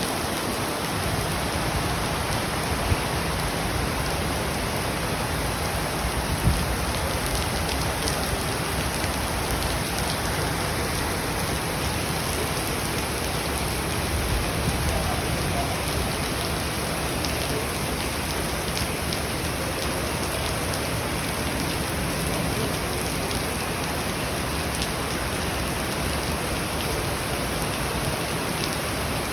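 Heavy rain falling steadily, a dense even hiss of rain on surfaces with a few louder drop hits.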